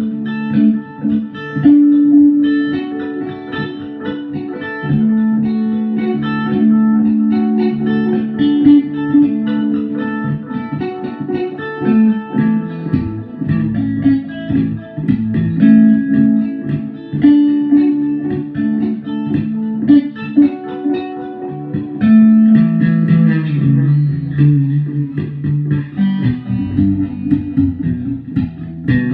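Guitar music: a run of plucked notes over lower bass notes, without singing.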